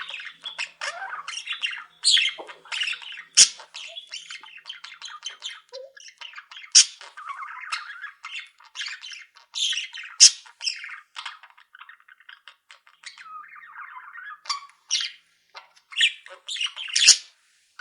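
A colony of small pet cage birds (budgerigars, canaries and zebra finches) calling all at once: a dense, continuous chatter of overlapping chirps and sharp squawks. The sharp calls thin briefly about two-thirds of the way through, while softer warbling carries on.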